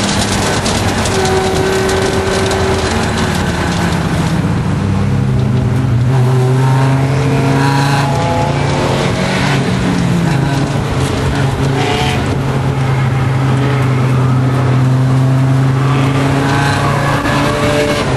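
Audi race car's engine running hard at steady high revs, heard from inside the cabin over wind and road noise. Its pitch dips briefly and climbs again about halfway through.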